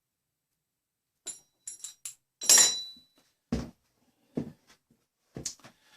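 Small metal hardware, star washers, clinking together as they are handled, with a metallic ring, followed by a few short dull knocks.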